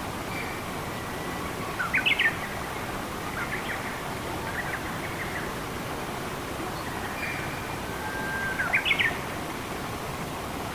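Steady rush of flowing water with a songbird calling over it: two louder phrases of quick rising chirps, about two seconds in and again near the end, with fainter calls in between.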